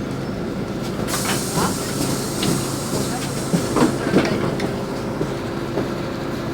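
Inside a LiAZ 5292.65 city bus: the engine hums steadily while a sudden hiss of compressed air starts about a second in and fades over a few seconds, with several clunks and knocks.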